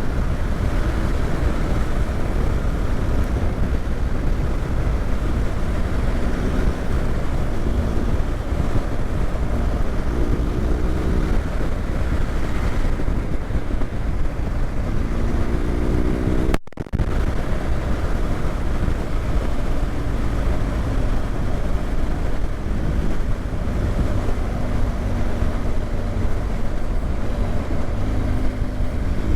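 BMW GS motorcycle engine running under way with heavy wind rush over the rider's microphone; the engine pitch rises several times as the bike accelerates. The sound cuts out for a moment about halfway through.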